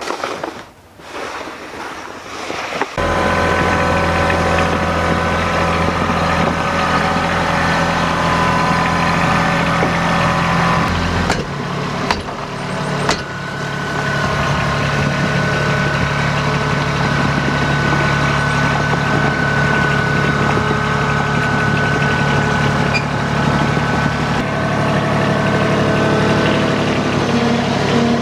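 A vehicle engine comes in suddenly about three seconds in and runs steadily, its note shifting briefly near the middle before settling again.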